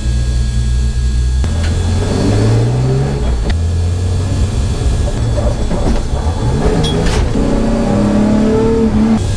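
Car engine at speed, accelerating through the gears: a steady low hum, then from about a second and a half in the engine note rises in several sweeps, a higher one near the end, before it cuts off suddenly.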